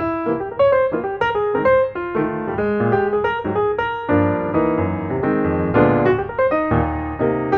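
Background music: piano playing a quick run of notes, with a fuller low accompaniment from about four seconds in.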